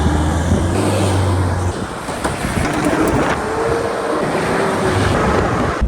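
A motor vehicle running with loud rushing noise over it; a steady low engine hum fades out a little under two seconds in, leaving the rushing noise.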